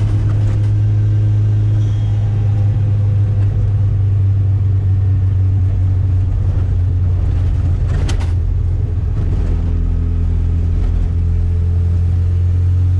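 Turbocharged Chevrolet Chevette's engine running under way, a steady low drone with a single jolt about eight seconds in, its pitch rising slowly near the end. It carries a strange new noise that the driver suspects comes from the turbo.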